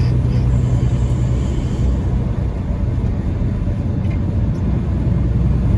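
Peterbilt 579 semi truck driving on the highway: a steady low rumble of engine and road noise.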